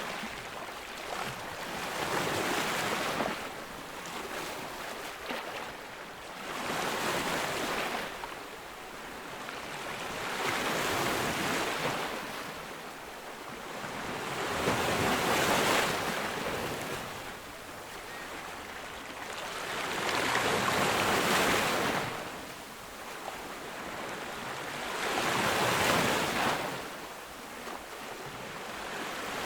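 Ocean waves breaking on a beach, each surge of surf swelling and washing back about every four to five seconds.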